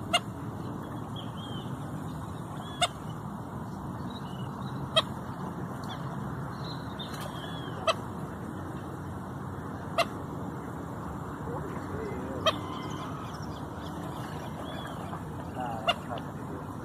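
Outdoor pond ambience, a steady hiss, with a bird giving seven short, sharp calls two to three seconds apart and faint chirps between them.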